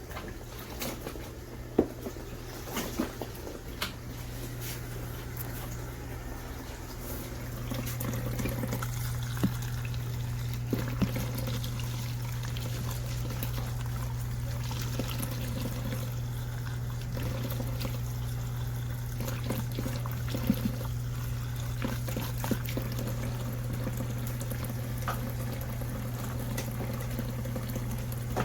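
Portable mini washing machine with water moving and splashing in its tub over a steady motor hum; the hum grows louder about seven seconds in, with scattered clicks and splashes throughout.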